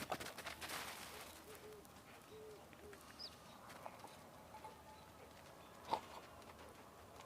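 Faint outdoor animal sounds: a few short low calls and a single high bird chirp, with scattered clicking knocks near the start and one sharper knock about six seconds in.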